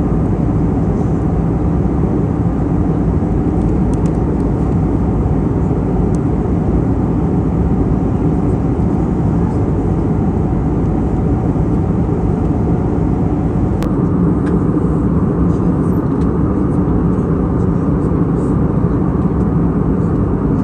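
Steady drone of an Airbus A320neo cabin in flight: engine and airflow noise heard from a passenger seat, with a low steady hum. A single brief click about two-thirds through.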